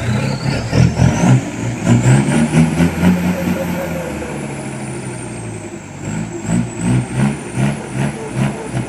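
Dump truck's diesel engine labouring and revving in uneven surges, with a high whine that climbs sharply in pitch over the first few seconds and then slowly falls away.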